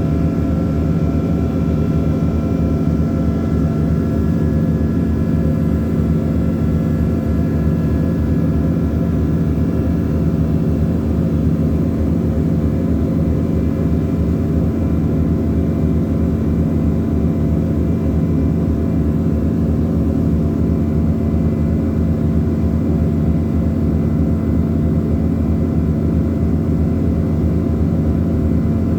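Ship's diesel engine running with a steady, heavy, pulsing drone. A few faint high tones above it fade out about ten seconds in.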